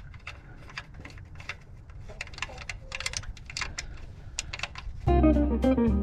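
Irregular light clicks and ticks of hands and tools working, with no steady rhythm. About five seconds in, guitar music starts abruptly and is the loudest thing.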